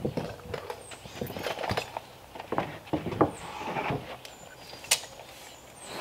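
Wooden decking boards being handled and set in place: scattered knocks and scrapes of wood on wood, with sharper knocks about three and five seconds in.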